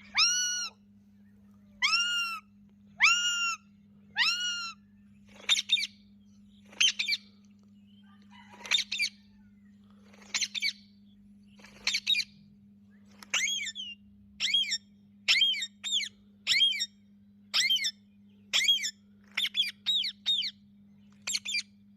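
Indian ringneck parakeet giving short, harsh squawking calls over and over, about one call a second, the early calls arching down and back up in pitch.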